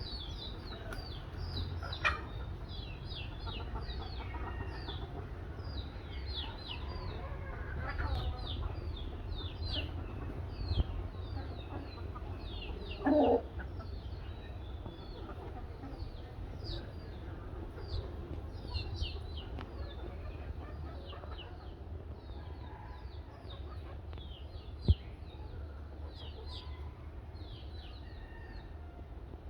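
Birds chirping without pause: a dense run of short, high, falling chirps over a steady low rumble. A louder, lower call sounds briefly about a third of the way in, and a single sharp click comes near the end.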